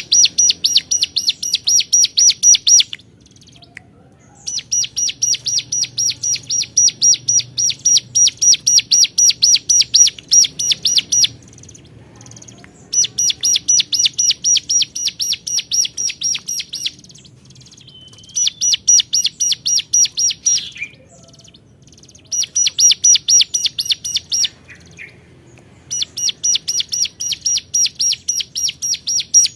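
Ciblek gunung (cigun), a prinia, singing its loud repeated call: bouts of rapid sharp notes, about four a second, each bout a few seconds long with short pauses between.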